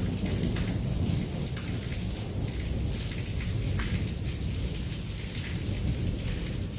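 Heavy rain pouring, with a low rolling rumble of thunder underneath and scattered sharp ticks of drops striking nearby surfaces.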